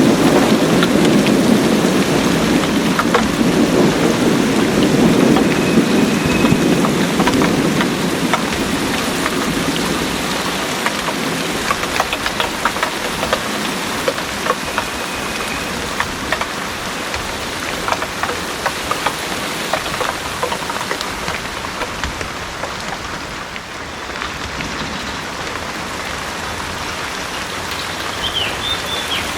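Heavy rain falling steadily, with drops striking close by as sharp clicks. A low roll of thunder is there at the start and dies away over the first several seconds.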